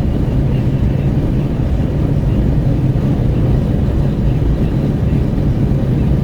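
Wind rushing in through an open window of a Renault Kwid 1.0 at highway speed, mixed with tyre and road noise, heard from inside the cabin. A steady low rumble that does not change.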